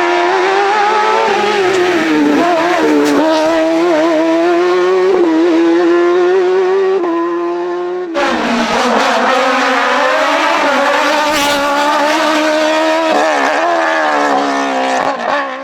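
Hillclimb race car engines at full throttle, the pitch climbing and dropping as they shift gears and lift off for bends. The sound cuts off sharply about halfway through and another run of engine noise carries straight on.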